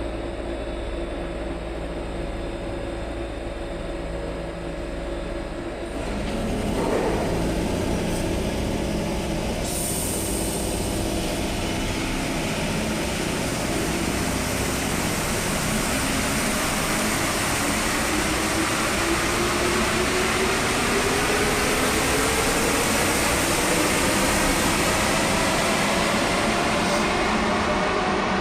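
Inside an Alstom NS-74 rubber-tyred metro car: a steady hum while the train stands, then about six seconds in the running noise jumps up as it pulls away. The motor whine rises steadily in pitch as the train accelerates.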